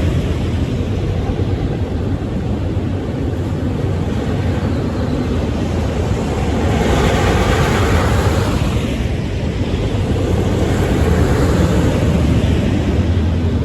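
BNSF freight train with diesel locomotives going by: a loud, steady low rumble and hum, with a swell of rushing hiss about halfway through.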